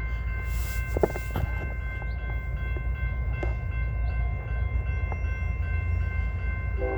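Freight train cars rolling past: a steady low rumble of wheels on rail, with a faint steady high whine and a few sharp clanks.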